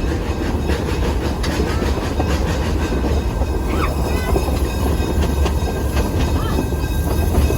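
Narrow-gauge train rolling along the track, heard from aboard: a steady low rumble of wheels with faint clicking from the rail joints.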